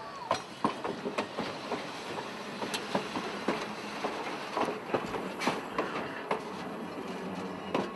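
Passenger train cars running on the track, with a steady rumble and irregular sharp clicks and knocks from the wheels and couplings.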